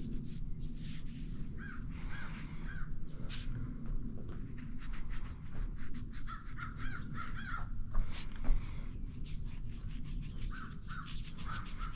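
Birds calling outdoors in short runs of three to five quick notes, heard three times, over close rubbing strokes, the loudest of them a little after the middle.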